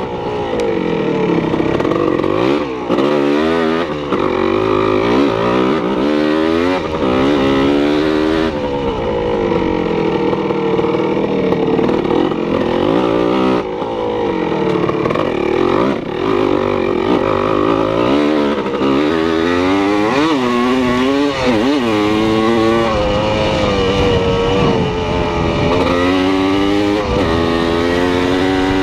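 Motor engines revving, their pitch rising and falling over and over.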